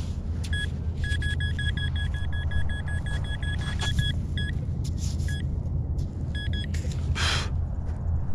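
A metal detector sounding a target: short, high beeps of one pitch repeating rapidly in runs, over a steady low rumble. A short scraping rush comes near the end.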